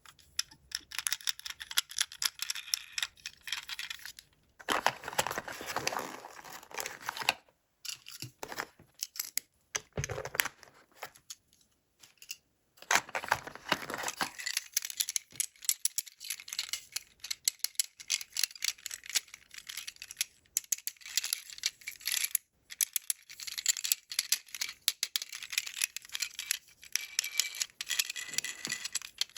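Toy packaging being unwrapped by hand: plastic wrapping crinkling and tearing, with small plastic parts clicking and rattling, in bouts broken by a few short pauses.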